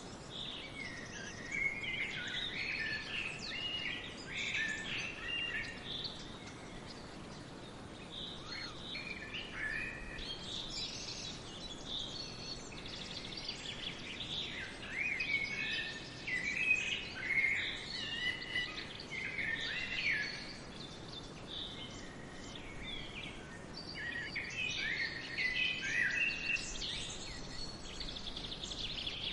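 Several songbirds chirping and warbling in overlapping bursts over a soft steady background hiss.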